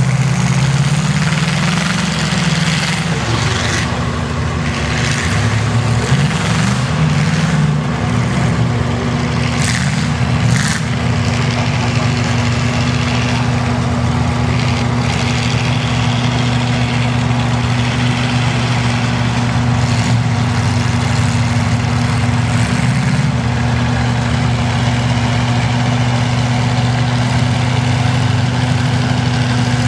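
Truck engines running, a steady low drone whose pitch shifts up and down through the first ten seconds or so, then holds even.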